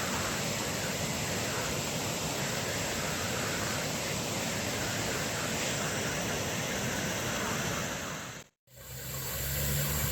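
Floodwater rushing in a steady, waterfall-like roar. About eight and a half seconds in the sound cuts out briefly and comes back with a steady low hum under the noise.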